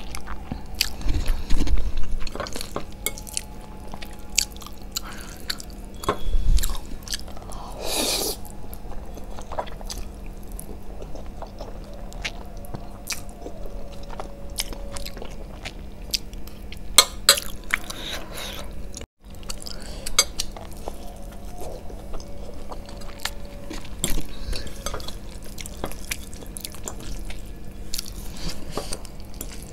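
Close-miked chewing of spicy Korean instant noodles, with wet mouth clicks and smacks throughout and a louder noisy burst about eight seconds in. The sound drops out for an instant about two-thirds of the way through.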